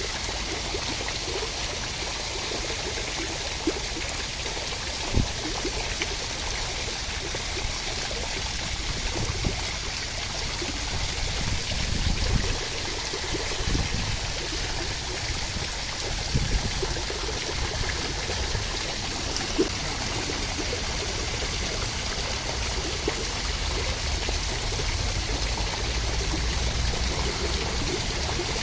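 Steady rush of water, an even hiss across all pitches, with a few soft low thumps and ticks scattered through it.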